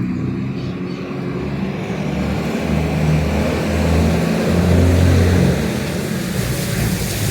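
A motor vehicle's engine running close by, its low drone slowly growing louder, with a rising hiss of tyres and traffic noise above it.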